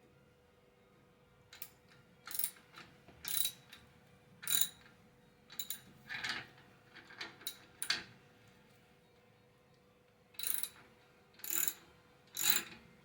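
3/8-inch drive ratchet with a 15 mm socket clicking in short strokes, about one a second, as the exhaust tip's clamp bolts are tightened. The strokes stop for about two seconds near the middle, then three more follow.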